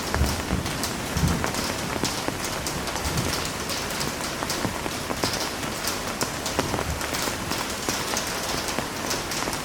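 Heavy rain falling steadily, a dense patter of drops striking a surface, with a couple of brief low thumps in the first second and a half.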